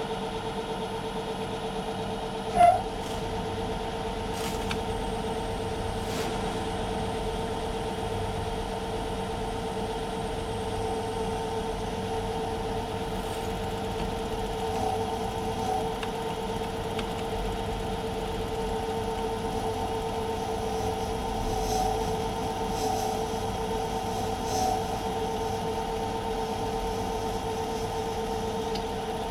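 Myford metal lathe running steadily with an even hum while taking a heavy roughing cut on a metal bearing housing. A single sharp clank about three seconds in.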